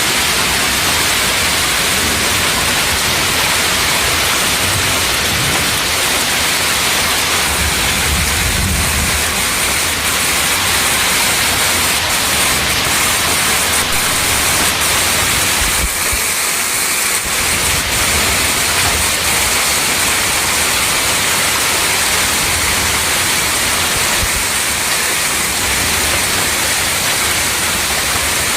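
Heavy downpour in a violent storm: a loud, steady hiss of driving rain, with low gusty rumbles of wind on the microphone.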